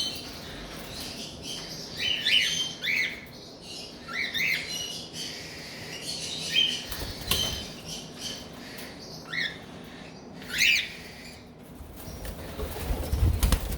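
Cockatiels chirping and whistling in short, rising and falling calls every second or so. A low rumble comes near the end.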